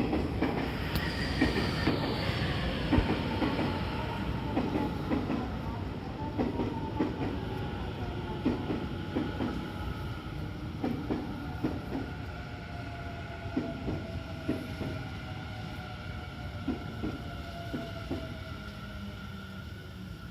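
Electric commuter train pulling into a station and braking. The wheels clack over rail joints at a slowing pace while the motor whine falls steadily in pitch.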